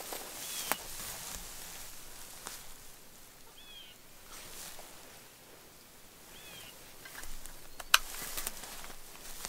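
Quiet field ambience at dusk: three short, high bird chirps a few seconds apart over soft rustling, with a faint click early on and a sharp, louder click about eight seconds in.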